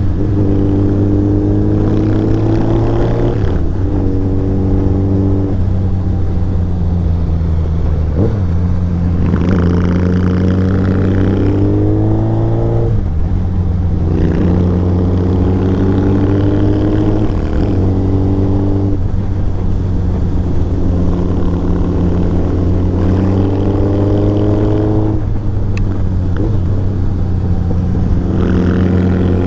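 Royal Enfield Interceptor 650's parallel-twin engine running through a Motowings aftermarket exhaust while riding. Its pitch climbs slowly under throttle and drops sharply about five times.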